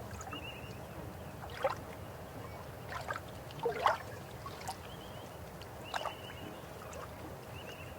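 River water flowing steadily, with brief louder gurgles and splashes every second or so.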